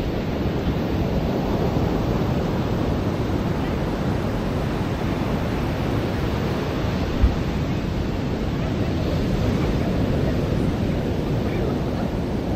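Ocean surf washing onto a beach, a steady rush of breaking waves, with a brief low thump about seven seconds in.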